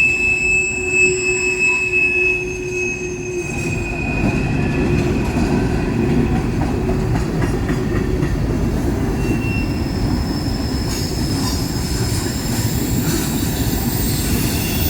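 A train rolling past on the rails: a steady, heavy rumble of wheels and cars, with thin, high wheel-squeal tones, strongest in the first few seconds.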